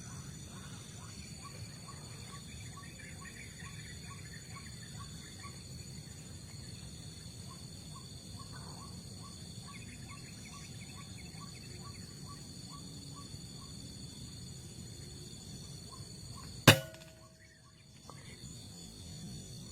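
White-breasted waterhen calls: short notes repeated about three times a second, with fainter chattering above them. Near the end comes a single loud, sharp shot.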